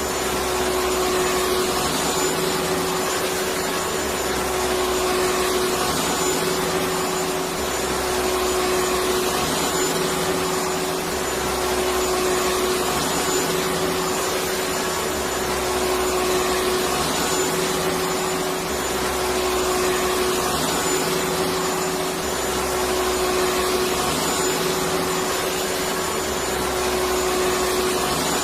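Electric vacuum cleaner running steadily: a constant rush of air over a steady motor tone, with a faint low layer that shifts every two to three seconds.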